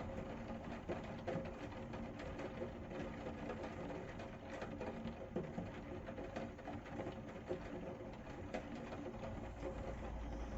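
Rain falling, with many small drop ticks over a steady noise and a faint steady hum. A low rumble starts near the end.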